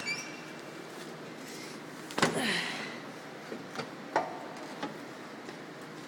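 Old International dump truck's cab door clunking loudly about two seconds in, followed by a few lighter knocks and clicks.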